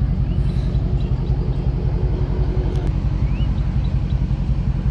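2018 Dodge Daytona 392's 6.4-litre HEMI V8 idling: a steady, deep rumble.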